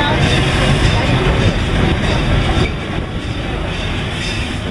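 Steam train's passenger car rolling along its track: a steady running and clattering of wheels on rails, a little quieter from about two and a half seconds in.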